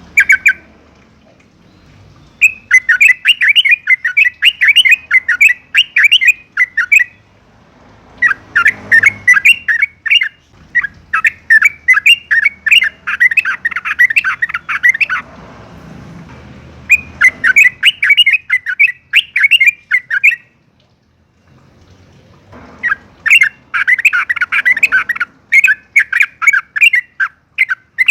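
Yellow-vented bulbul singing in long runs of rapid chattering notes, about five bursts of two to five seconds each with short pauses between.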